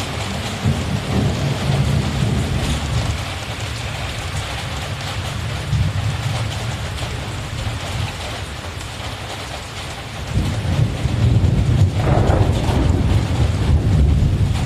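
Heavy rain falling steadily, with thunder rumbling low beneath it; the rumble swells louder about ten seconds in.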